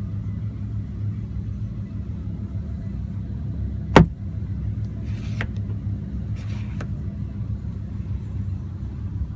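Low steady rumble of the Huracán's V10 idling, heard inside the cabin. About four seconds in comes a single sharp click, the loudest sound. Two brief scraping rustles follow, each ending in a click.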